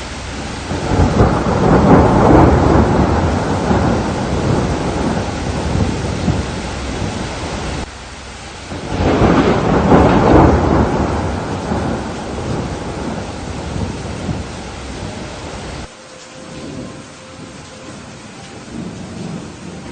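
Two long rolls of thunder over steady rain. Each swells up within about a second and then rumbles down over several seconds, and each cuts off suddenly, the first about eight seconds in and the second about sixteen seconds in. After that only the rain goes on, quieter.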